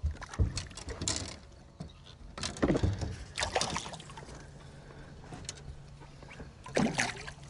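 Water splashing in short, irregular bursts: a hooked bass thrashing at the surface beside the boat as it is brought in.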